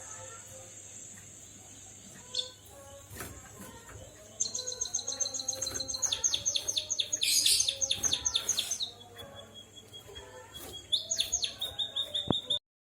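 White-headed munia (emprit kaji) singing a canary-like song: rapid trills of repeated high notes begin about four seconds in, give way to a held high whistle, then trill again before cutting off abruptly near the end.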